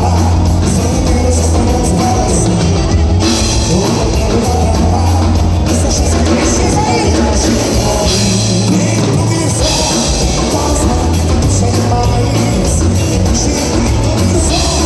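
Gaúcho dance band playing live, with a drum kit keeping a steady beat under a heavy bass line and guitar.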